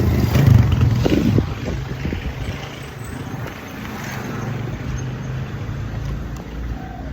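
Motor vehicle engine running close by, loudest for the first second and a half, then settling into a steady low hum.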